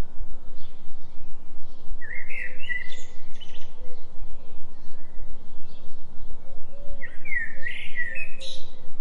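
A low steady tone, pulsing about three times a second as a 3 Hz delta binaural beat, under forest bird song. A bird sings two short chirping phrases, one about two seconds in and one near the end.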